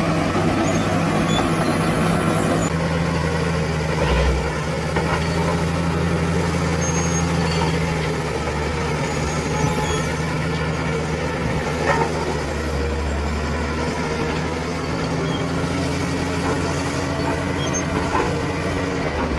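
Bulldozer's heavy diesel engine running steadily, its low note shifting slightly about three seconds in, with a couple of short metallic knocks around four and twelve seconds in.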